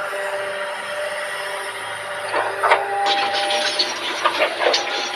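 Excavator working: engine and hydraulics running with a steady whine, and several sharp knocks, one about two and a half seconds in and a cluster near the end.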